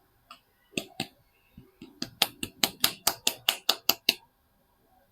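A few scattered clicks, then a quick, even run of about a dozen sharp taps, roughly five a second, that stops abruptly. These come from handling soap bars as they are unpacked.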